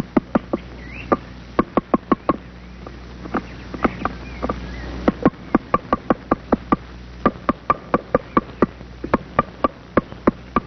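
A woodpecker chiselling into wood with single sharp pecks, a few a second in irregular short runs with a brief pause midway, as it excavates its nest hole.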